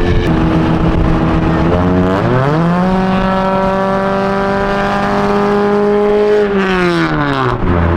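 A car with a loud, raspy aftermarket exhaust (a "fart machine") accelerating. The engine note climbs about two seconds in, holds high for several seconds, then falls back near the end.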